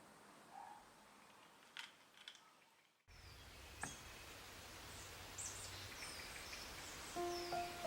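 A few faint small clicks, then, after a brief moment of silence about three seconds in, a steady outdoor background with short high bird chirps. Soft music comes in near the end.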